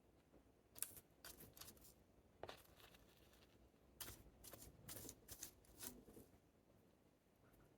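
Crisp rustling and small clicks from handling succulents and potting materials, in two short flurries about a second in and again around four to six seconds in.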